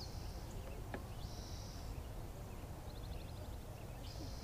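Quiet lakeside ambience with faint, high-pitched bird calls: a few short buzzy trills and a quick run of ticks about three seconds in, over a faint low rumble.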